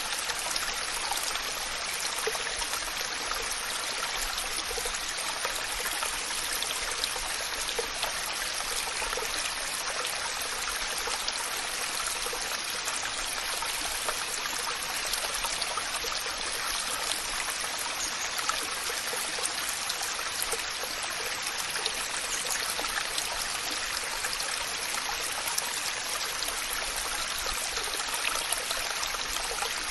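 Waterfall: water falling and splashing steadily in a dense, even rush, bright and hissy with little low rumble.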